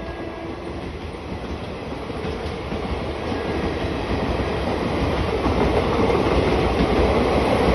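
A passing train approaching, its rumble and wheel noise on the rails growing steadily louder.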